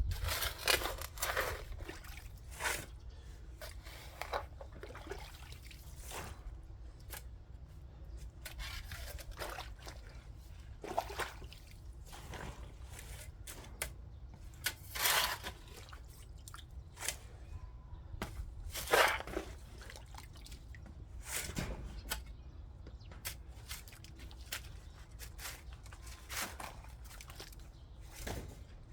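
Digging tool working wet, clay-like soil: irregular scrapes and dull knocks every second or two, with a steady low rumble underneath.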